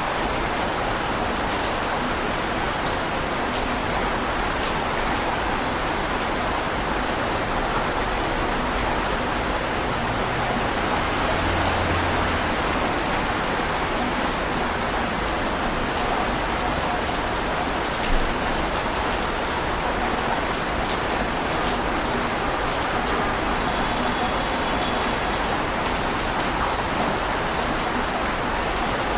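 Heavy rain falling steadily, a dense even hiss with scattered individual drop impacts and one sharper drip about 18 seconds in.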